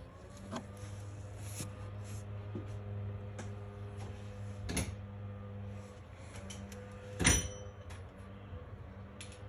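Metal hand tools being handled: scattered light clicks and taps, with one sharp metallic clink that rings briefly about seven seconds in, over a steady low hum.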